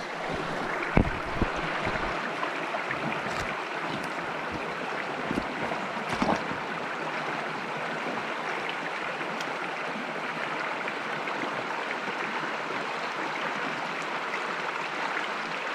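Water of a tiny stream running steadily, with a few short knocks in the first couple of seconds and again about six seconds in.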